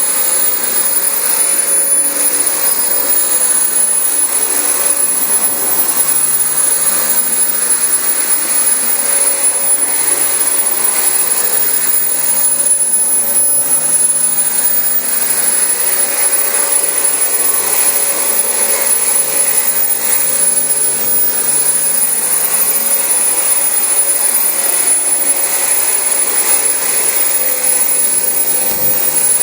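Dyson DC25 ball upright bagless vacuum cleaner running steadily on carpet: the rush of air through the machine with a steady high whine from its motor.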